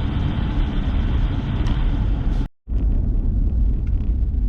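Steady low rumble and hiss of a car's interior with the engine running. A little past halfway the sound cuts out completely for a split second, then the rumble resumes with less hiss.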